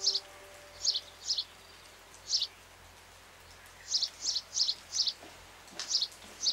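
A small bird chirping: short, high chirps repeated at uneven intervals, with a quick run of four about four seconds in.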